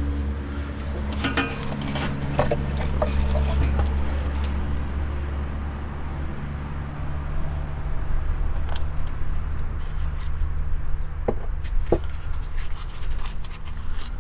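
Scattered clicks and knocks of tools and parts being handled, over a steady low hum.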